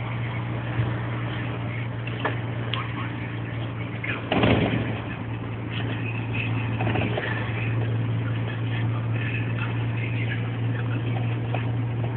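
Scania 124L 360 truck's diesel engine idling with a steady hum, and a brief louder noisy burst about four and a half seconds in.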